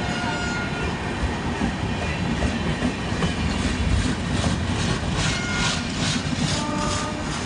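Indian Railways express train passing at speed, a steady heavy rumble with its wheels clattering rhythmically over the rail joints, a few clacks a second, growing more distinct after about two seconds.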